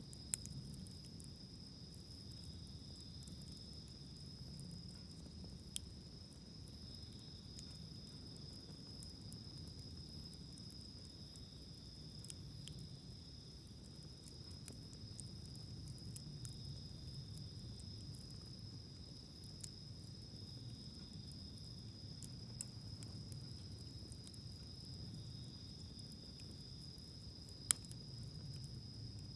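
Insects trilling steadily at a high pitch, with a wood campfire giving a few sharp isolated pops, the loudest near the end.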